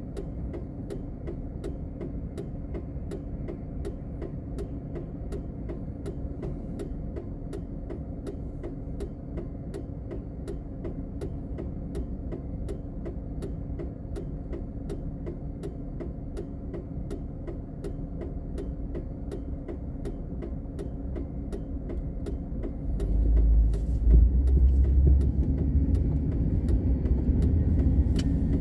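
Car heard from inside the cabin: a steady engine hum with a regular tick about twice a second. Near the end the low rumble gets louder as the car speeds up.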